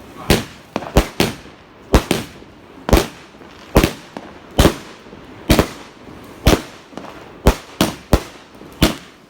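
Fireworks going off: about a dozen sharp bangs at roughly one a second, each with a short echoing tail.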